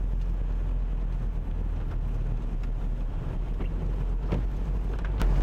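Four-wheel-drive vehicle's engine and running gear heard from inside the cabin: a steady low drone while it drives slowly along a dirt track, with a few faint knocks.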